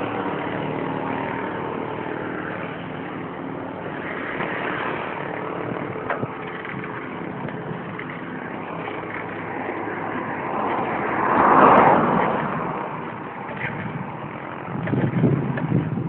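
Motor vehicle traffic running steadily, with one vehicle passing by; it swells to its loudest about twelve seconds in and then fades. Louder low rumbling comes in near the end.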